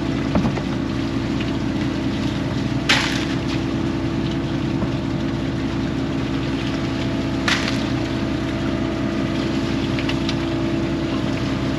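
A fishing boat's engine running steadily with a constant low drone. Two brief rushing sounds of water against the hull, about four and a half seconds apart, rise over it.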